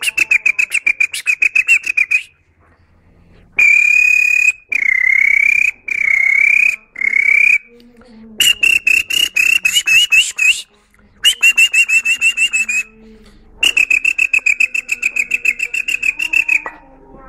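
A child whistling in imitation of canary song: rapid trilled runs of high whistled notes, broken by short pauses, with a few long held whistles with a slight dip in pitch near the middle.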